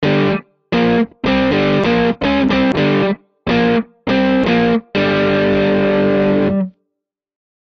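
Distorted electric guitar riff: a string of short, loud chord stabs with brief gaps, then one chord held for nearly two seconds that cuts off abruptly.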